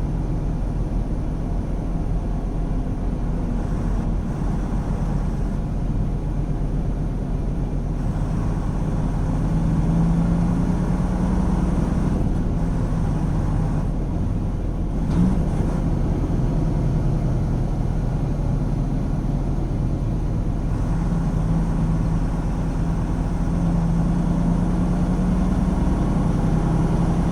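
Tractor-trailer's diesel engine and road rumble inside the cab while driving, a steady engine drone that swells a little about ten seconds in and again near the end. A single short click about halfway through.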